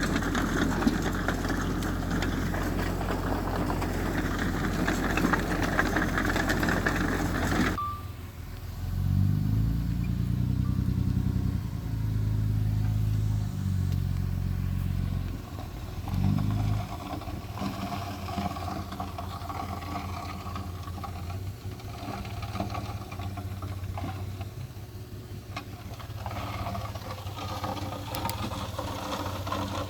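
Diesel engines of heavy earthmoving machinery (bulldozer and dump trucks) working. The sound changes abruptly about eight seconds in, then an engine revs up and down for several seconds before settling into steadier, quieter running.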